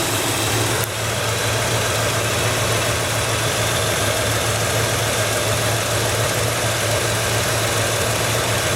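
1967 Cadillac Eldorado's 429 V8 idling steadily, heard close up in the open engine bay.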